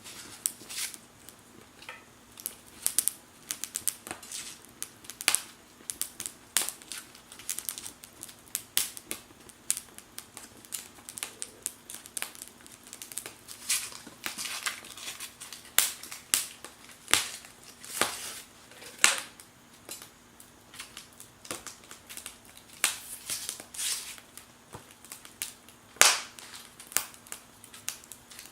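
Wood fire crackling and popping in a Firebox stove: irregular sharp snaps, several a second, with a few louder pops, over a faint steady hum.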